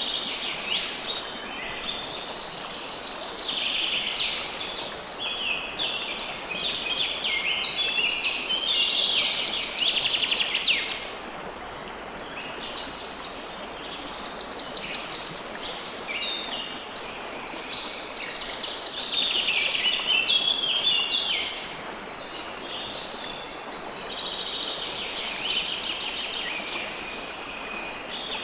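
Songbirds singing in rapid, twittering bouts of a few seconds each, over a steady hiss of running water.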